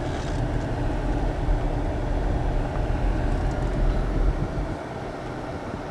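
Steady low rumble of road and engine noise inside a moving car, easing off slightly near the end.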